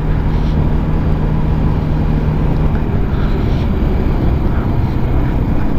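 Peda Tekken 250 motorcycle engine running at a steady cruise, its low hum holding even pitch, under a dense rush of wind and road noise.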